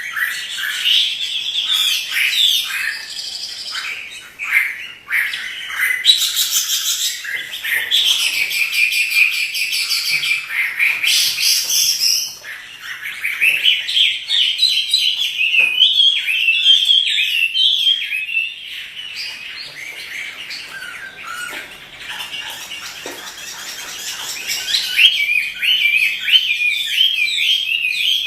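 Chinese hwamei singing a long, varied song of rapid whistled phrases and trills, with a harsher, noisier passage in the middle and a brief dip a little before halfway.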